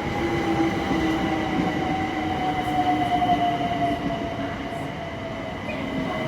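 Southeastern Class 376 electric multiple unit pulling into the platform, its whine falling slowly in pitch as it slows, over the rumble of its wheels on the rails.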